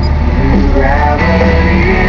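Rock music with singing playing from the 2008 Honda GL1800 Goldwing's audio system, just switched on. A steady low hum runs underneath, which is the bike's flat-six engine idling.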